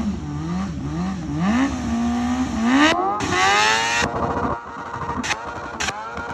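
BMW S1000RR inline-four engine revving: a few quick blips of the throttle, then a long rising sweep held at high revs. Near the end come a couple of brief sharp cracks, each with a short dip in pitch.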